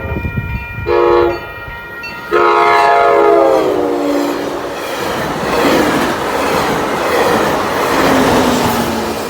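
Horn of an ACE commuter train at a grade crossing. A short blast comes about a second in, then a longer blast that drops in pitch as the train passes. After it comes the loud rush and rumble of the train going by.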